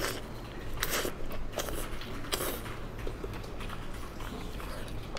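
A person biting and chewing soft braised meat close to the microphone: wet, irregular mouth sounds, with sharper bites about one, one and a half and two and a half seconds in.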